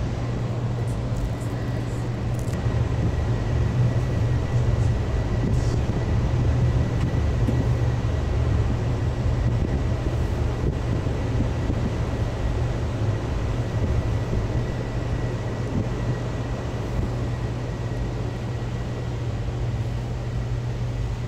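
Passenger train in motion, heard from inside the dome car: a steady low rumble from wheels and rails with a faint, steady high-pitched whine above it.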